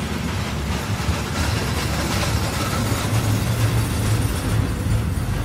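Double-stack intermodal well cars rolling past slowly: a steady low rumble of steel wheels on the rails.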